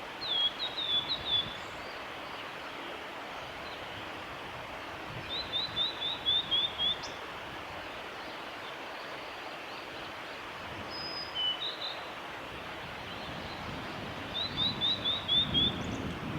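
Male blue-and-white flycatcher singing: three short phrases of quick, high, slurred notes, several seconds apart, with a couple of brief notes between them, over a steady background hiss.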